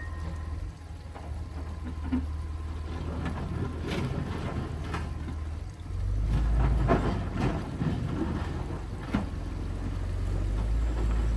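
John Deere 670 motor grader's diesel engine running with a steady low rumble that grows louder about six seconds in. Several knocks and clatters from the machine come between about four and nine seconds.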